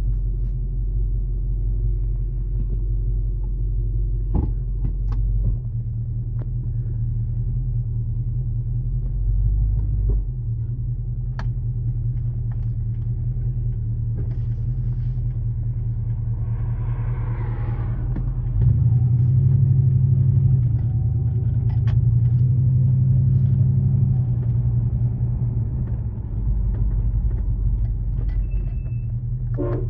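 1978 Chrysler LeBaron's 360 V8, with no catalytic converter, heard from inside the cabin as a steady low rumble while the car rolls at low speed. It grows louder a little past halfway.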